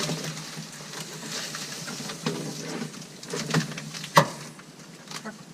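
Rustling and scraping as a cardboard template and foam are handled and pushed into place inside a small aircraft cabin, with scattered clicks and one sharp knock about four seconds in.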